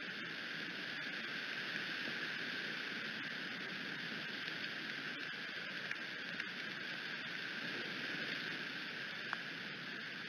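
Steady rain hissing on the eagle nest, with a few faint ticks now and then.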